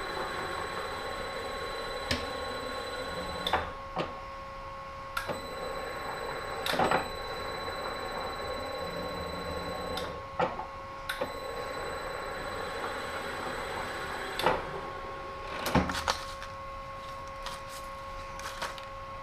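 A machine-tool motor whines steadily in a workshop, with irregular sharp metal clicks and knocks while the threaded holes in a model-engine crankcase are being tapped. Some of the whine's tones drop out and come back a few times.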